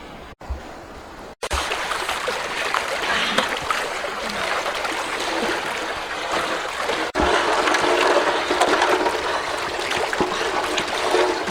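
Water splashing and trickling, a busy run of small splashes that breaks off abruptly three times.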